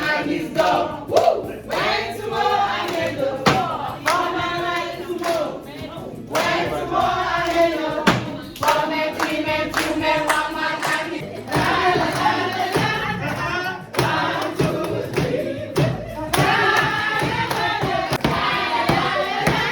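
A group of voices singing together over a steady beat of hand claps.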